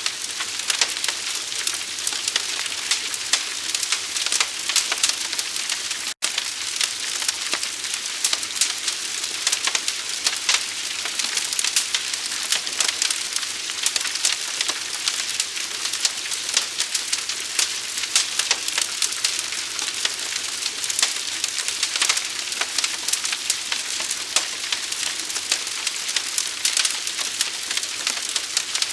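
Fire crackling: dense, fast snaps and pops over a steady hiss, with a split-second gap about six seconds in.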